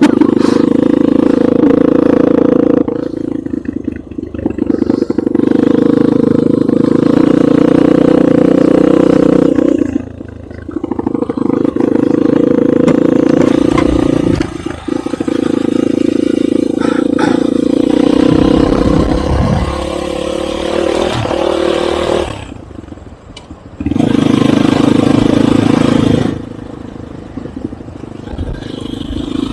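Enduro motorcycle engine running hard under steady throttle, easing off several times before picking up again.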